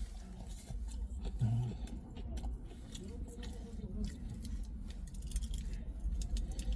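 A person eating a döner kebab: chewing, with many small clicks and rustles of handling the food, over a steady low background hum. A brief low hum of the voice comes about a second and a half in.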